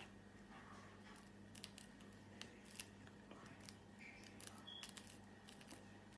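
Near silence: room tone with a low hum and a few faint scattered clicks.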